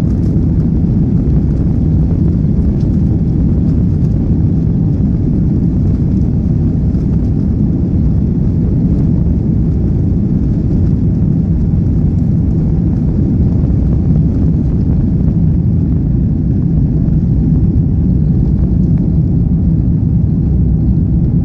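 Airbus A330 jet heard from inside the cabin: a loud, steady rumble of engine and airflow noise.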